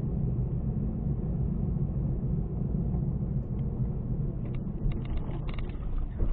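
Steady low rumble of a car driving, road and engine noise, with a few faint clicks near the end.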